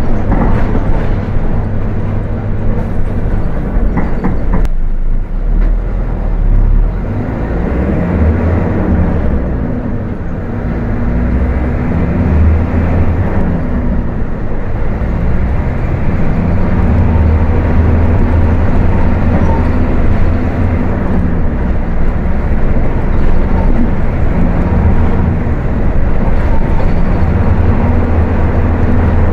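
Volkswagen 17.230 OD bus diesel engine running hard at high revs, its note rising and falling as the bus drives, with a short dip about four to five seconds in.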